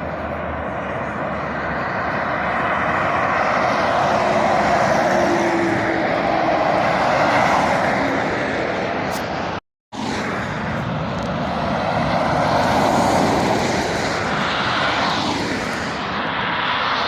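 Road traffic, lorries and cars, passing at speed: a steady rush of tyres and engines that swells twice as vehicles go by. It cuts out to silence briefly about ten seconds in.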